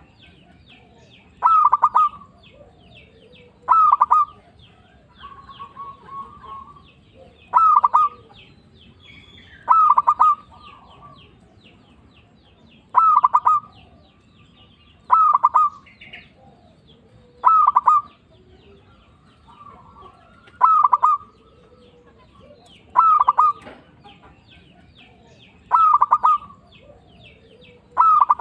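A zebra dove (perkutut) singing its cooing song: short phrases of quick staccato coos repeated about a dozen times, one every two to three seconds. Faint high chirping of other small birds runs behind.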